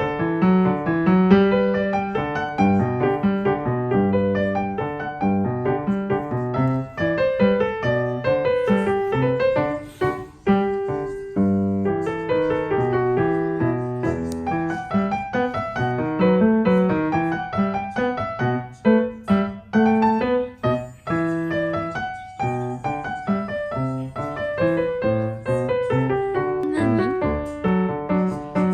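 Background piano music: a steady, continuous melody played on piano.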